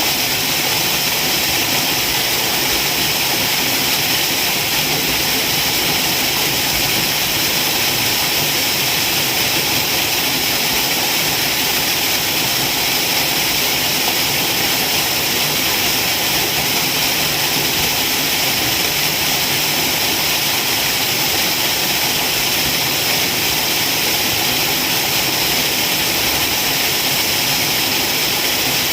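Waterfall: water falling in a steady, unbroken rush with a bright hiss, never changing in level.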